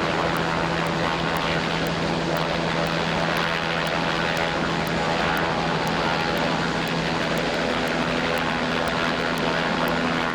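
Steady, unbroken engine drone with a constant low hum, over a continuous rushing hiss.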